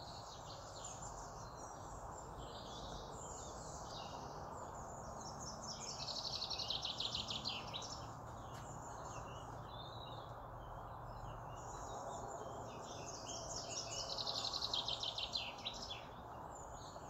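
Small birds singing in bursts of rapid, repeated trilling chirps, twice for several seconds, over a steady background hiss of outdoor noise.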